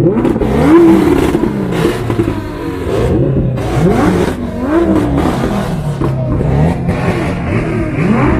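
Car engines being free-revved in short blips, the pitch rising and falling again about every second, with more than one engine overlapping.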